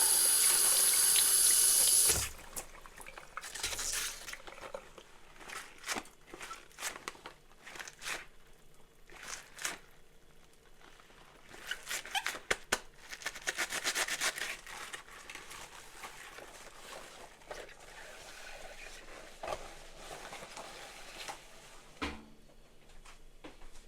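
Kitchen tap running in a steady stream, then shut off abruptly about two seconds in. Scattered clinks and knocks of dishes being handled and set down follow, with a busier run of clatter around the middle.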